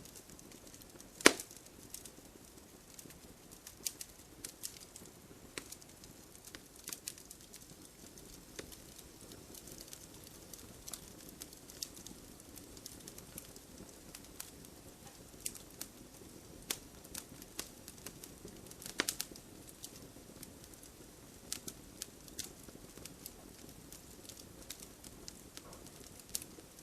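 Wood fire crackling: burning logs give irregular sharp pops and snaps, a few much louder than the rest, over a soft steady hiss of flame.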